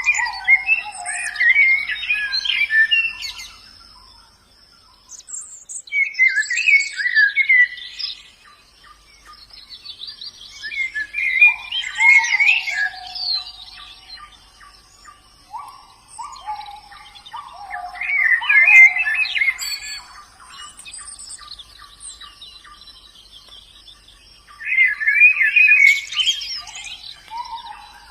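White-eye (pleci) song: five rapid, twittering phrases of about two to three seconds each, repeated about every six seconds. Lower, down-sliding whistled notes come between the phrases, over a faint steady high-pitched hum.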